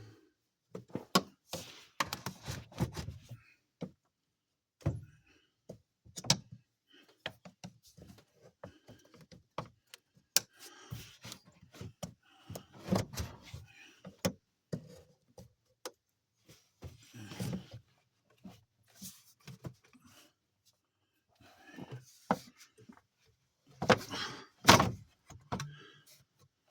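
Irregular knocks, clicks and clatter of hand work under a truck's hood: the intake hose to the breather box being loosened and pulled off, with parts handled and set down. The loudest knocks come about 24 to 25 seconds in.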